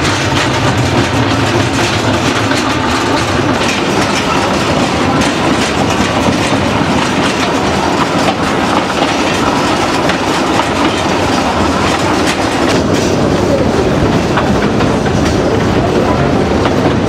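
Narrow-gauge train carriage rolling steadily along the track, heard from on board, its wheels clicking over the rail joints.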